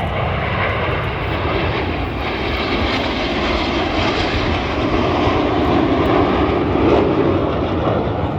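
Display aircraft flying overhead: a steady engine roar that swells a little toward the end, with low wind rumble underneath.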